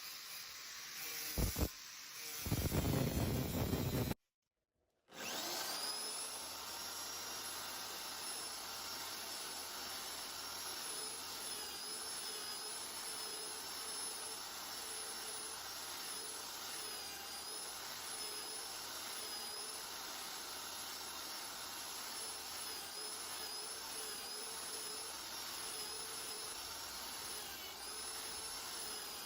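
Electric power tool running steadily, a high whine over a steady hiss that wavers slightly in pitch as it works. Before that there is a few seconds of louder, rougher work noise, then a sudden second of silence.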